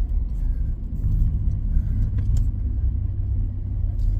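Straight-piped exhaust of a 2024 Nissan Frontier's 3.8-litre V6 giving a steady low rumble at light throttle while driving.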